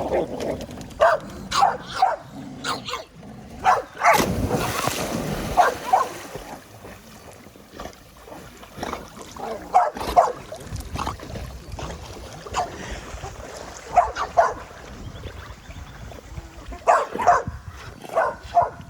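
Several dogs barking and yipping in short bursts, with a splash of water about four seconds in.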